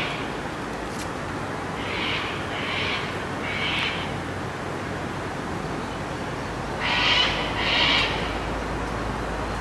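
A bird's short, raspy calls: one at the start, three more about a second apart a couple of seconds in, then a louder pair near the end. A steady low hum runs underneath.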